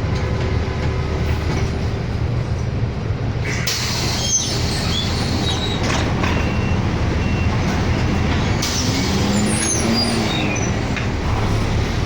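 City bus in motion, heard from inside: a steady low engine and road rumble. From about three and a half to nine seconds in a louder hiss rides on top, with a few faint squeaks.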